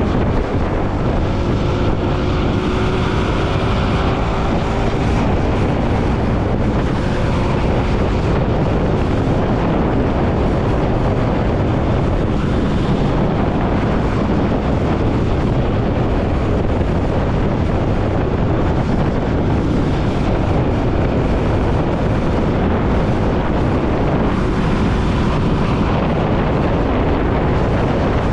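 Steady wind rush on the microphone of a moving motorcycle, a Bajaj Pulsar NS200, with its engine and traffic noise underneath. Faint pitch glides show in the first few seconds.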